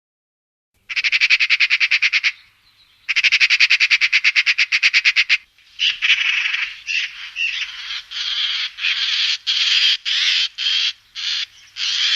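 A bird's harsh calls: two fast dry rattles, then a run of rasping notes in quick succession.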